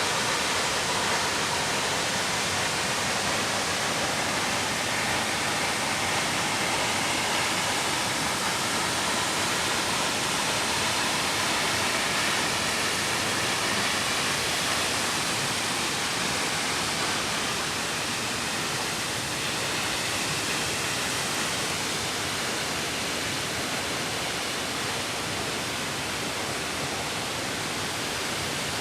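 Mountain creek water rushing steadily, a dense even hiss of flowing water that eases slightly a little past halfway.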